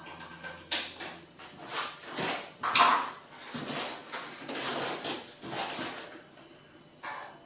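Metal side panels of a Pierro Silver espresso machine being handled and lifted off, clanking and scraping in a string of knocks. There is a sharp knock a little under a second in, and the loudest clatter comes near the middle.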